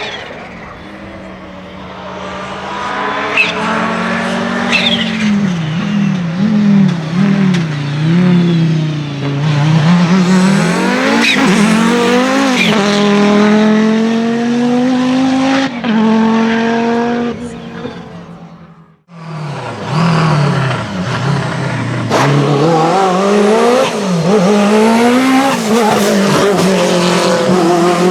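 Rally car engines at full throttle on a stage, the engine note repeatedly climbing and dropping with gear changes and throttle lifts. The sound cuts out abruptly about two-thirds through and picks up again with another run of hard revving.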